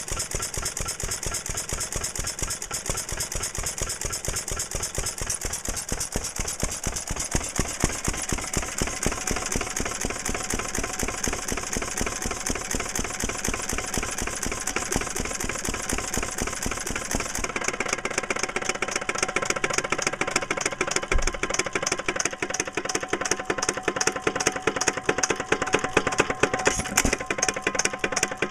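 Old flywheel stationary engine running with a rapid, even beat of exhaust strokes. About two-thirds of the way through the sound changes, the high hiss dropping away while the beat carries on.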